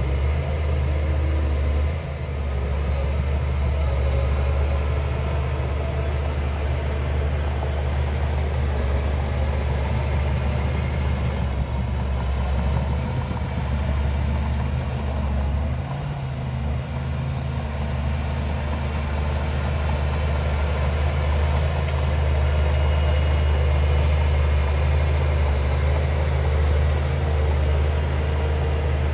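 Heavy diesel engine of earth-moving machinery running steadily with a deep, even hum.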